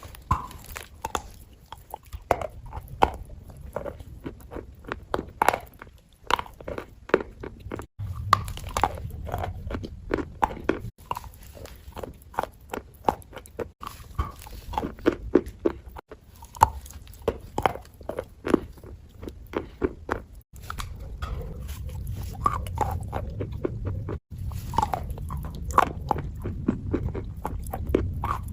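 Close-miked fake-eating ASMR: dense, irregular wet crunching, several sharp crackles a second mixed with squelchy paste sounds. There are brief dropouts every few seconds where short clips are spliced together.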